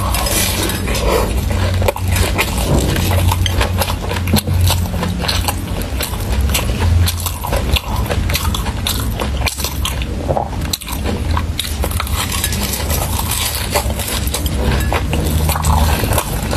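Close-miked biting and chewing of a crumb-coated fried purple sticky-rice cake layered with chocolate: wet, sticky chewing with many small irregular clicks and crackles, over a steady low hum.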